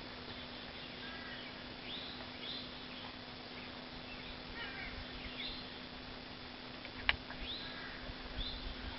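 Birds chirping in short rising-and-falling notes, and a single sharp crack about seven seconds in: the Crosman 2260 .22 CO2 air rifle firing a shot.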